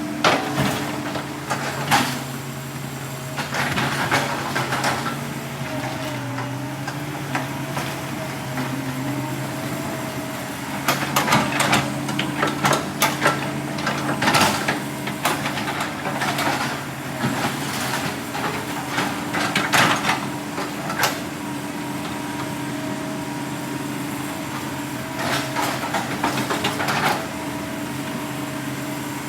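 Heavy earthmoving machine's diesel engine running steadily under load, with repeated clanking and knocking of logs and steel as timber is dragged and gathered, the knocks coming in clusters.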